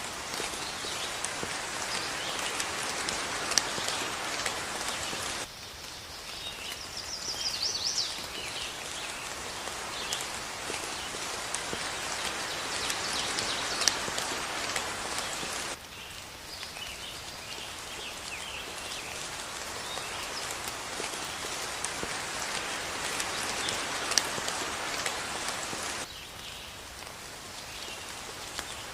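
Steady rain falling, with a few sharp drop splats and birds chirping through it. The rain gets suddenly quieter three times, at about 5 s, 16 s and 26 s.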